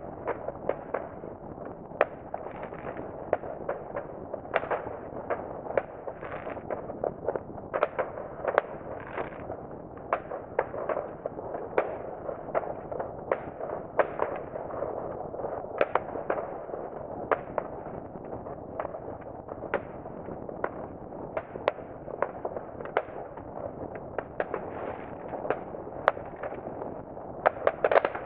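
Distant fireworks: an unbroken run of irregular bangs and pops, several a second, from many rockets and firecrackers going off across the surrounding area.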